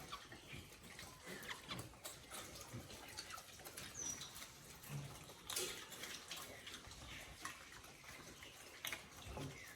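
Chickens feeding: soft scattered pecking taps with a few short, high chirps.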